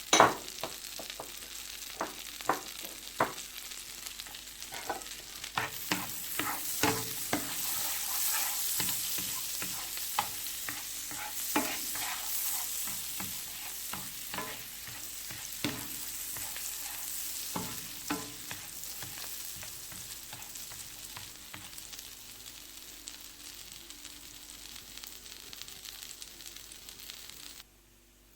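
Food sizzling in a pan while a utensil stirs it, with frequent clicks and knocks of the utensil against the pan. The sizzle grows louder about six seconds in, slowly eases, and cuts off suddenly just before the end.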